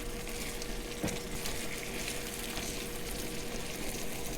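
Sausage, onions, peppers and pineapple in a sweet-and-sour sauce sizzling steadily in a skillet, with one light click about a second in.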